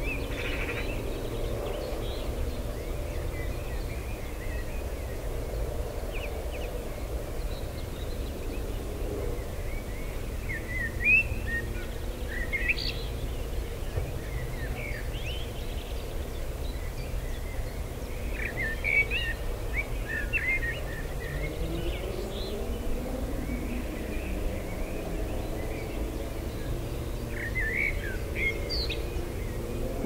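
Wild birds chirping and calling in short scattered phrases, busiest about a third of the way in and again just past the middle, over a steady low outdoor rumble.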